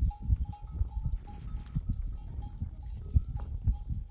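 Bells on a flock of sheep clanking in short repeated rings, over irregular low thumps.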